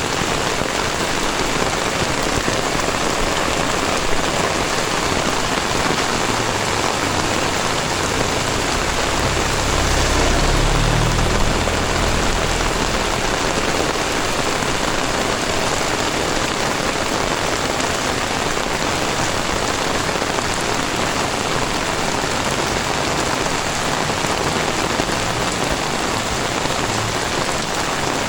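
Heavy tropical rain falling steadily, a dense even hiss. A low rumble swells and fades about ten seconds in.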